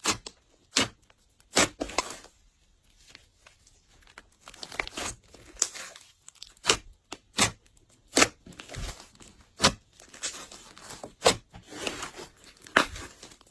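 Glossy slime being squished and stretched by hand, giving sharp sticky pops at irregular intervals with softer crackling between them.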